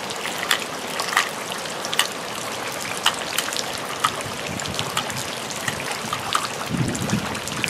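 Steady rain falling, an even hiss dotted with irregular sharp ticks of drops striking nearby surfaces.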